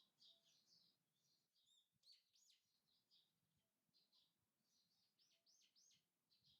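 Faint chirping of small wild birds: a busy run of short high chirps, with a few arched whistled notes about two seconds in and again near five to six seconds.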